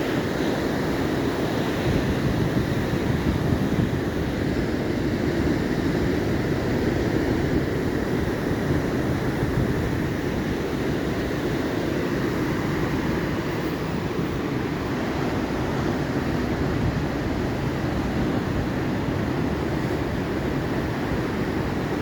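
Atlantic ocean surf: waves washing in a steady noise that swells gently a few times.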